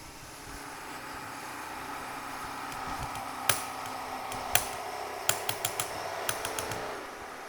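A machine or power tool running steadily, with a string of sharp clicks from about halfway through.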